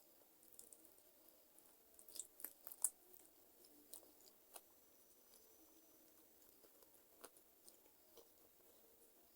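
A person chewing and biting chicken feet close to the microphone: wet clicks and crunches of skin and cartilage. There is a cluster of louder crunches about two to three seconds in, and sparser soft chewing after it.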